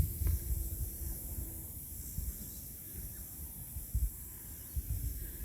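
Wind buffeting the microphone in irregular low bumps, over a steady high hiss.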